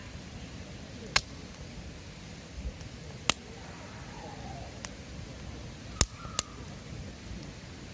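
Wood fire crackling: sharp pops every second or two over a low, steady rustle of burning.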